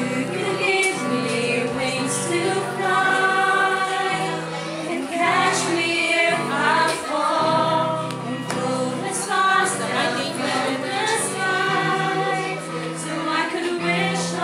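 A group of voices singing a song together, choir-like, over held low accompaniment notes.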